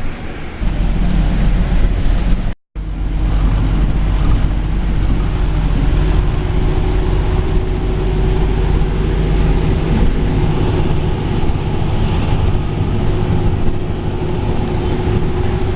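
Bus engine droning steadily with road noise, heard from inside a moving bus. The sound drops out for a moment about two and a half seconds in, then carries on.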